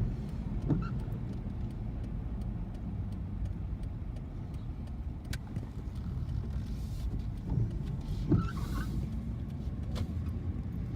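Car driving, heard from inside the cabin: a steady low road-and-engine rumble with a few light clicks.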